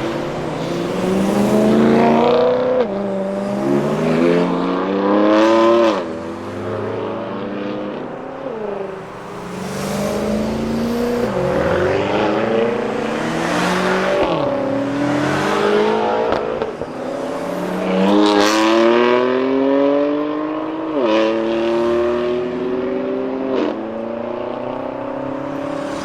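BMW performance car engine accelerating hard through the gears: the pitch climbs, then drops sharply at each upshift, over and over.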